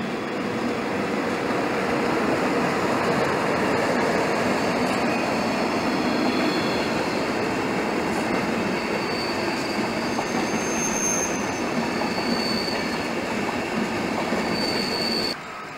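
Locomotive-hauled passenger train rolling past, a steady rumble of wheels on rail. Thin high wheel squeals come in and out from about nine seconds in. The sound drops off sharply just before the end.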